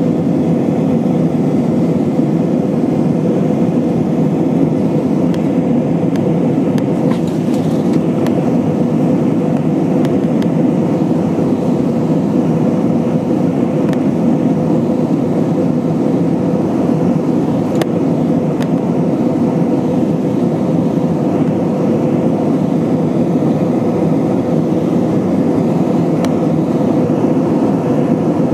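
Steady cabin noise of an Airbus A320-232 in flight: its IAE V2500 turbofans and the airflow over the fuselage make an even, unbroken noise, with a steady hum running through it.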